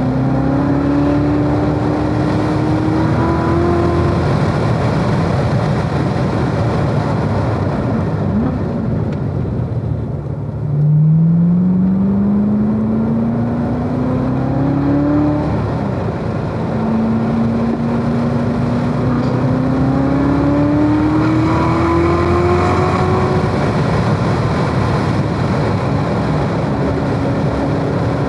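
Chevrolet Corvette Z06's supercharged 6.2-litre V8 under track driving. The engine note climbs under acceleration for about four seconds and falls away as the throttle is lifted for a corner. After a brief quieter dip it climbs hard again, rises once more from about seventeen to twenty-three seconds, and then holds steady near the end, over a constant bed of wind and tyre noise.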